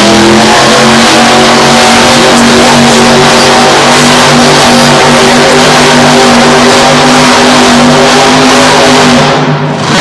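Monster truck engine held at high revs for about nine seconds with a steady pitch while the truck spins a fast cyclone on the dirt. It drops off briefly near the end.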